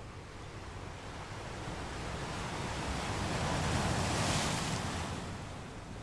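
Gentle ocean waves washing onto a sand beach: one wave swells in and is loudest about four seconds in with a hissing wash, then ebbs away.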